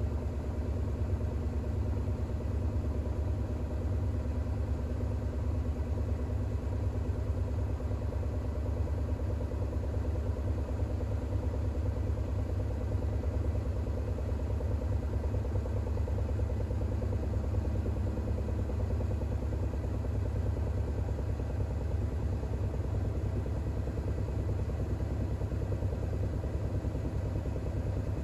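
Bosch WAX32GH1 washing machine in an intermediate spin at about 1200 rpm with an unbalanced load of towels: a steady, low hum of the motor and drum that holds the same speed throughout.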